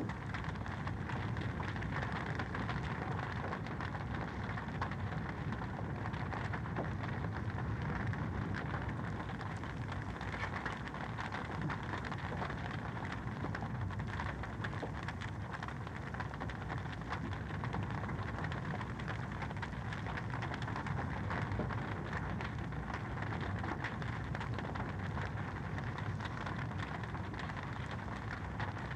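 Wood fire crackling in a fireplace: a steady hiss dotted with many small, quick pops.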